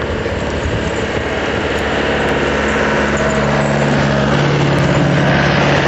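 Diesel-type engine of a snow-clearing machine running steadily, growing louder in the second half.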